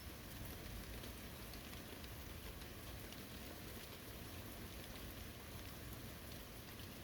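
Steady early-summer rain falling on a forest, a soft even hiss with many small drop patters.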